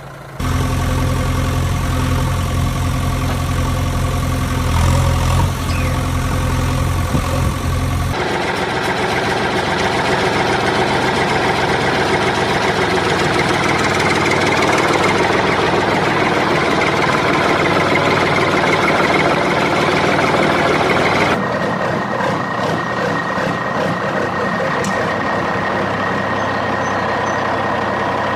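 Heavy engine sounds, idling at first, then changing abruptly to a busier running sound about eight seconds in, and again about twenty-one seconds in, to a steadier hum with a thin high whine.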